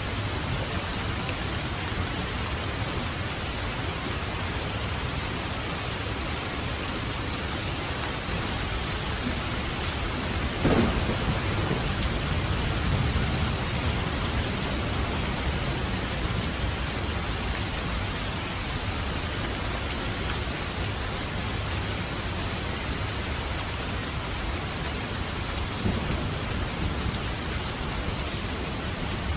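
Steady heavy rain on a roof, with a sudden thunderclap about a third of the way through that rolls off in a rumble for a few seconds, and a smaller crack of thunder near the end.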